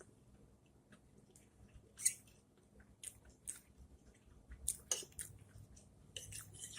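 A person chewing food, with scattered wet mouth clicks and lip smacks at irregular times, growing busier near the end.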